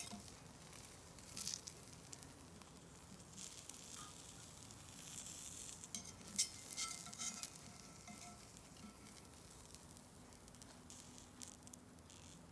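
Food sizzling in a frying pan over a fire, a steady faint hiss with scattered crackles and a few sharper clicks.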